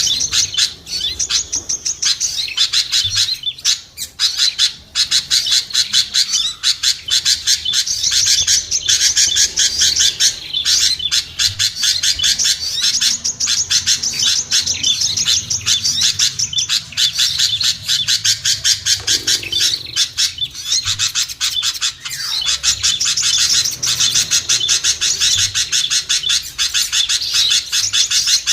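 Dense, unbroken chatter of many small songbirds, rapid high chirps and trills overlapping one another. It is a noisy bird-lure call recording meant to draw small birds down to a trapper.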